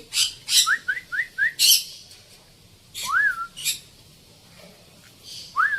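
African grey parrot whistling: four quick rising whistles, then a longer whistle about three seconds in and another near the end, with short hissy clicks between.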